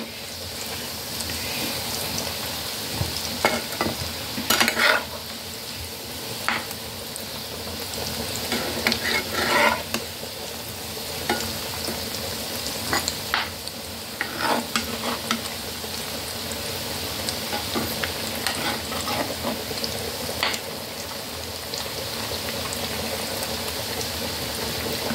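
Chicken shami kabab patties shallow-frying in oil in a pan, a steady sizzle, with scattered taps and scrapes of a metal spatula against the pan as the patties are turned over.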